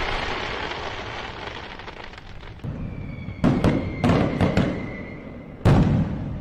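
Fireworks: a fading crackle, then a thin whistle lasting about two seconds, with several sharp, loud bangs of exploding shells in the second half.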